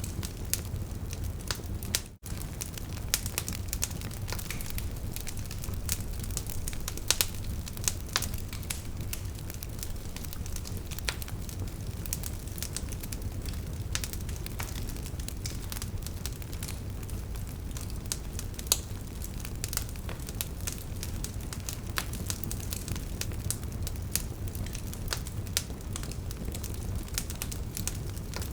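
Wood fire crackling, with irregular sharp pops and snaps over a steady low rumble of burning. A brief dropout to near silence comes about two seconds in, then the crackling carries on.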